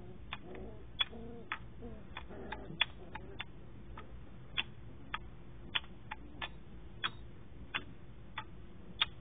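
Wooden kendama clacking in uneven sharp clicks, roughly two a second, as the ball knocks against the cups and spike during tricks.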